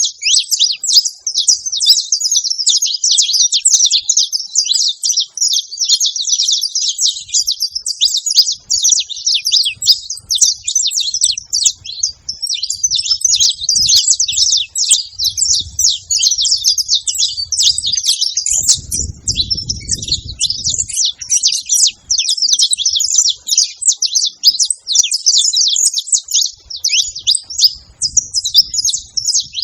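Saffron finch song: rapid, high chirping phrases that run on without a break. A faint low rumble comes in briefly about two-thirds of the way through.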